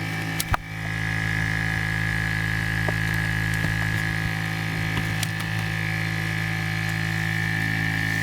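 Let's Resin bubble remover's vacuum pump running steadily: a low hum with a high whine. A click comes about half a second in, after which the whine is a little louder.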